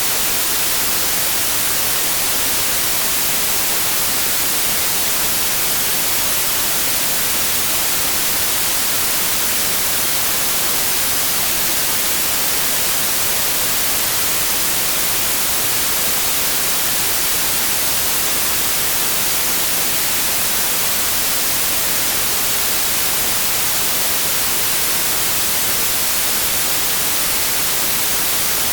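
Pure digital white noise: a steady, even hiss without any change in level or pitch.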